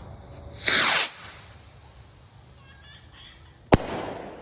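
A firework goes off: a short, loud rushing hiss just under a second in, then a single sharp bang about three seconds later that echoes away.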